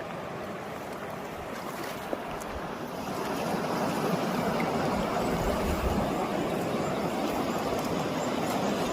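Steady rush of a flowing river, growing louder about three seconds in.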